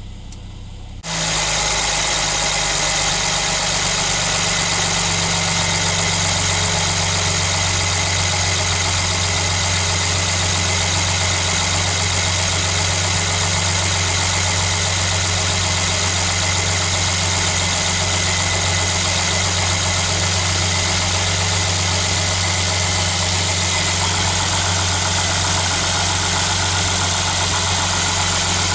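2015 Mercedes-Benz GL 450 engine idling steadily, heard close up at the open engine bay. The sound jumps up suddenly in level about a second in, then holds even.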